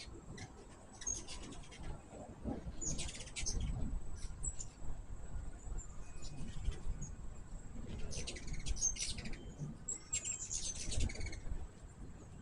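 Hummingbirds giving several short bursts of high, rapid chips and chatter, over a low rumble.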